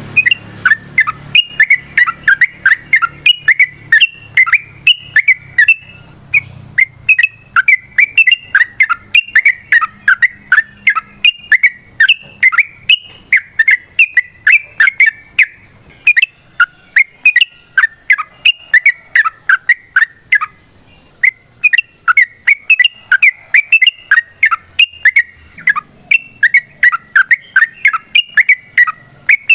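Yellow-vented bulbul (trucuk) singing a long, rapid run of short chirping notes, about four to five a second, broken by a couple of brief pauses: the energetic 'ropel' song used to provoke or lure other trucuk.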